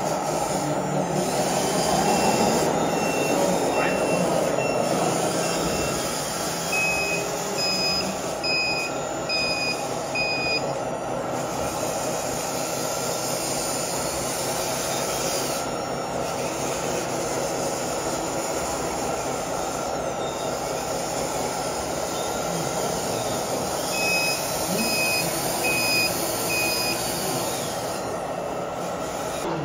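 Reversing beeper of an RC model construction vehicle's sound module, sounding runs of short evenly spaced beeps, about one and a half a second, as the model backs up; three runs, near the start, just after, and again late. Under it a steady hum of running models and people talking.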